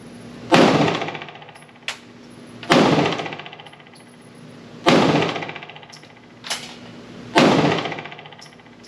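Palmetto State Armory Dagger 9mm pistol fired four times in slow, deliberate succession, about one shot every two and a half seconds. Each shot rings out with a long echoing decay in the enclosed indoor range. Two fainter sharp cracks fall between the shots.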